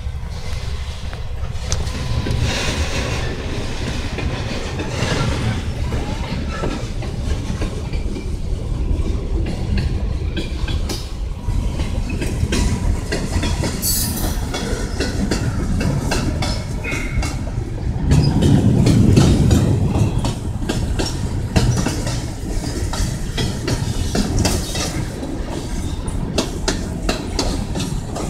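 Freight cars of a Kansas City Southern de México train rolling past, wheels clicking steadily over the rail joints under a continuous rumble. A brief high wheel screech comes about halfway through, and the rumble grows louder about two-thirds of the way in.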